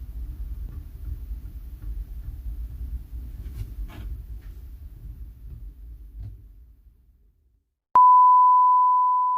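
A low rumble with a few faint clicks fades away. About eight seconds in, a click starts a loud, steady high beep on one pitch that slowly fades.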